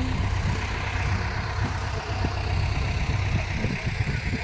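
Tractor engines idling, a steady low rumble.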